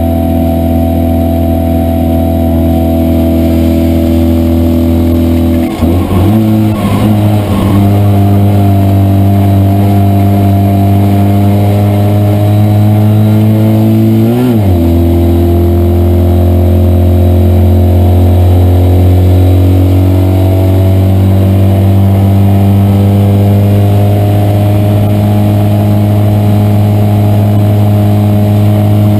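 Citroën 2CV race car's air-cooled flat-twin engine running hard at high revs, heard from inside the car's cabin. The engine pitch shifts abruptly about six seconds in and again near halfway, with gear changes.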